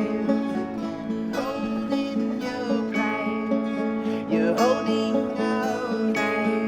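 Acoustic guitar strumming chords in an instrumental passage of a song, with a fresh strum about every second and a half.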